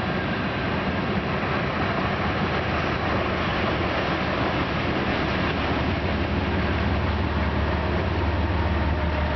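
Freight train rolling past with a steady rumble and rattle. A low engine hum grows louder over the last few seconds.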